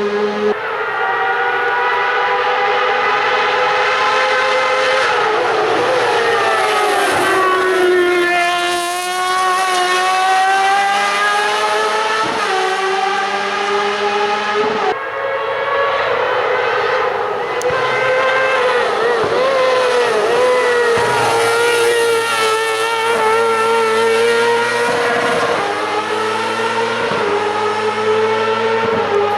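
Hill-climb race car engine running hard at high revs, its pitch held high and stepping abruptly at each gear change. About a third of the way in it falls away and climbs back up.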